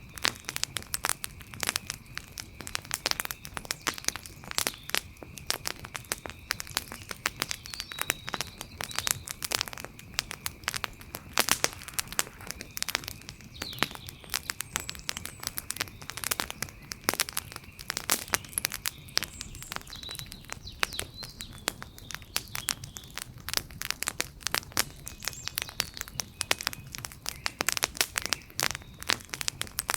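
Wood fire crackling, with dense, irregular pops and snaps. A faint steady high tone runs underneath, and a few short chirps come about eight seconds in and again about twenty seconds in.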